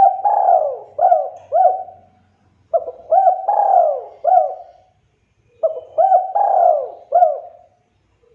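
Spotted dove cooing: three phrases a few seconds apart, each a run of about four notes that rise and fall, the first phrase already under way as the sound begins.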